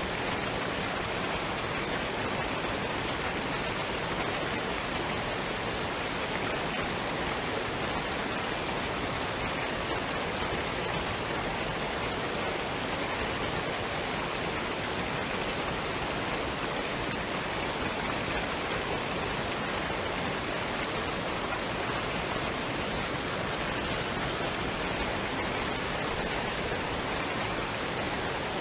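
Waterfall and stream water rushing in a steady, even hiss that does not change.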